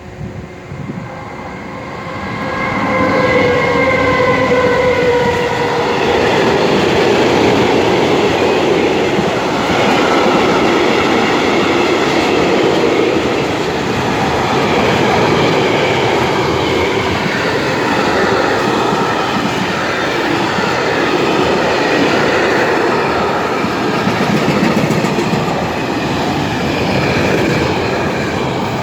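Freight train passing, headed by two SNCB class 13 electric locomotives. Their tone falls in pitch as they go by about three seconds in, followed by a long, steady run of wagons rolling over the rails.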